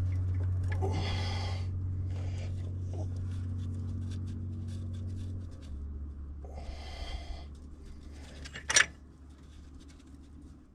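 Cockshutt 1850 tractor engine starting and running with a steady low drone. Its pitch drops about five and a half seconds in as it settles, and it gets quieter after that. Two short hisses and one sharp crack are heard over it.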